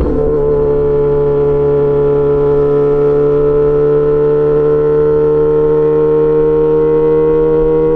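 Yamaha XJ6 S inline-four engine running loud through an SC-Project aftermarket exhaust, pulling steadily under way. Its pitch settles just after the start, then climbs slowly as the bike gains speed.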